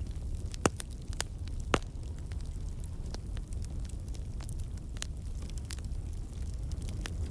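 Campfire of burning logs crackling: scattered sharp pops and snaps from the wood, two louder snaps in the first two seconds, over a steady low rumble.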